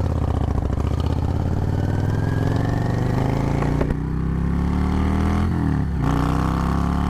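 Motorcycle engine accelerating: the revs climb, drop at a gear change about four seconds in, climb again, then dip once more before holding steady.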